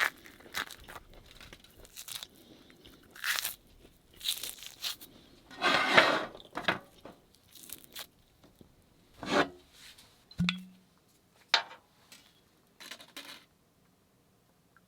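Food wrapping being handled: crinkling and tearing in a string of separate rustling bursts, the loudest about six seconds in, with a short low hum about ten seconds in.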